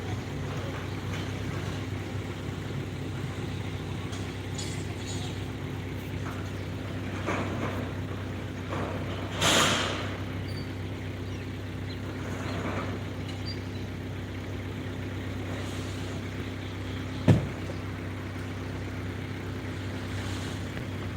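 Excavator's diesel engine running steadily. About nine seconds in there is a short hiss, and a sharp knock comes near the end.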